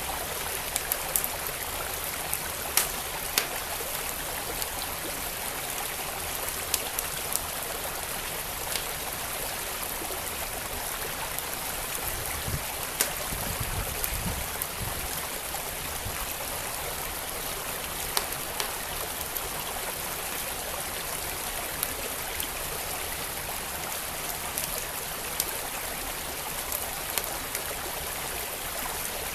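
Wood fire crackling, with sharp pops every second or two, over a steady rush of a flowing creek. A brief low rumble comes about halfway through.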